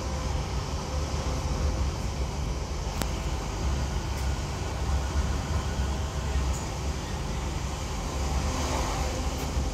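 Interior running noise of a Class 323 electric multiple unit under way: a steady low rumble from the running gear and rails, with a single sharp click about three seconds in.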